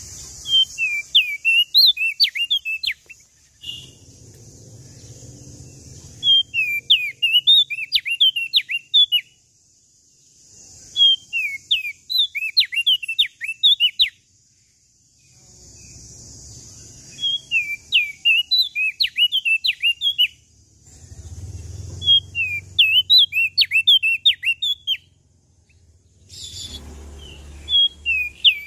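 A songbird sold as 'prenjak daun Lombok' singing in repeated full phrases. Each phrase is a fast run of sharp, swooping high notes lasting two to three seconds, about six phrases with short pauses between them. A steady high hiss and some low rumble lie underneath.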